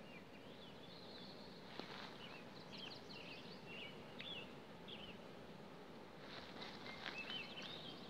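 Faint wild bird song, short high chirps and quick trills repeating through, over a quiet outdoor hiss. Light rustling or steps join in near the end.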